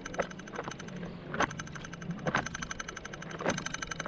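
Small waves slapping against the hull of a kayak sitting still on the lake: short, sharp slaps at irregular spacing, about one a second, over a steady low hum.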